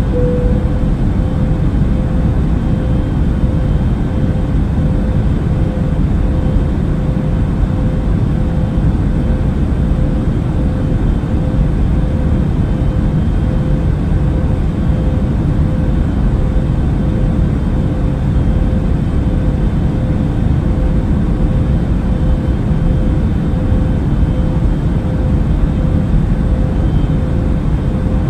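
Airplane in flight: a steady low roar of engine and air noise with a steady hum running through it.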